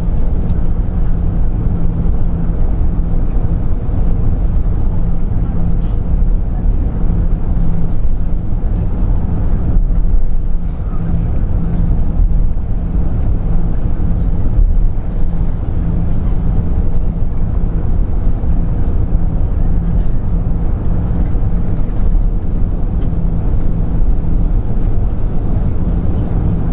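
Airbus A340 cabin noise while taxiing: a steady low rumble of the engines and airflow with a constant low hum underneath.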